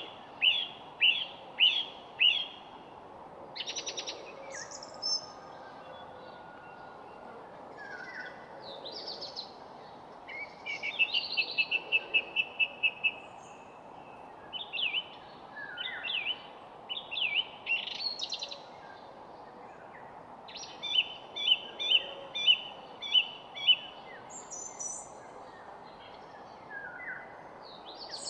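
Several songbirds singing and calling: series of short, clear chirps and a quick trill of repeated notes, over a steady faint background hiss.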